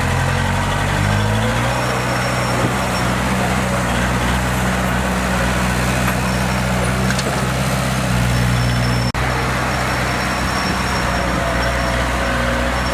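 Heavy earthmoving machine's diesel engine running steadily, its pitch stepping up slightly about a second in. The sound cuts out for a moment about nine seconds in.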